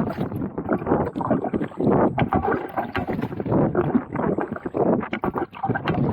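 Kayak paddle strokes splashing and sloshing through the water, a surge of splash about once a second.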